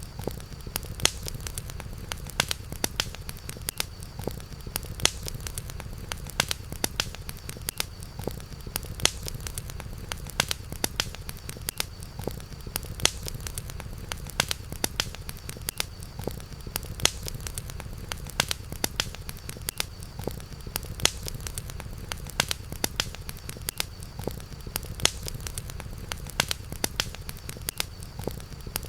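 Campfire crackling: frequent, irregular sharp pops and snaps over a low steady rumble.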